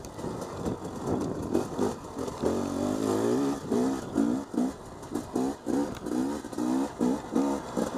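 Dirt bike engine revving up and down under throttle as it rides a rough track, with one longer pull about two and a half seconds in and then a string of short, quick bursts of throttle.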